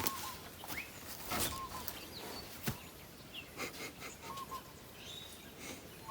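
Birds calling outdoors, one giving a short repeated chirp every second or two, with other chirps and a few sharp clicks and knocks in between.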